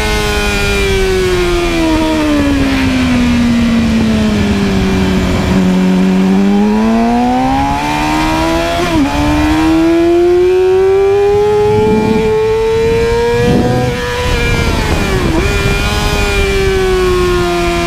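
Sport-bike inline-four engine at high revs on a racetrack. The revs fall away over about six seconds, then climb steadily back up with a brief dip about nine seconds in, drop sharply again near fifteen seconds and settle lower, the pattern of braking into corners and accelerating out.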